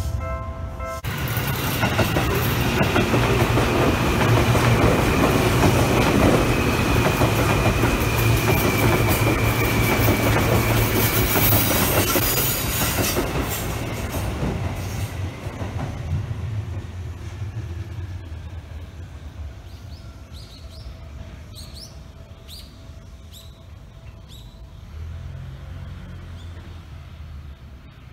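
A level-crossing bell ringing, cut off about a second in, then a Seibu 2000-series electric train passing close by: a loud rumble of wheels on rail with a steady high whine that slowly falls in pitch, fading as the train pulls away. A few short high squeaks are heard near the end.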